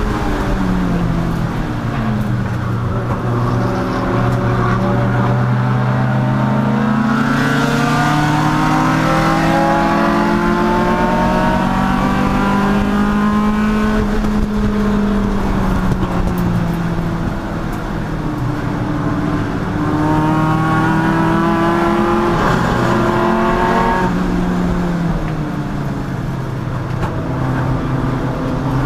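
Race car engine under load at racing speed. Its note climbs steadily for a long stretch, drops away as it lifts or brakes, then climbs again, with a brief dip in the second climb.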